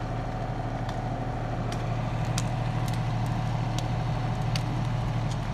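Deutz-Fahr 4055 tractor engine running steadily, with scattered sharp ticks over it.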